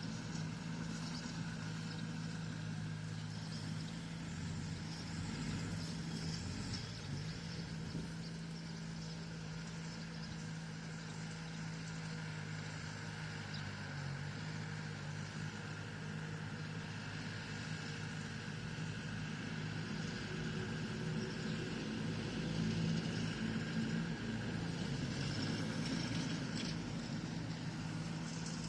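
Bulldozer's diesel engine running steadily under work. Its pitch dips and rises slightly a few times, and faint knocks come now and then.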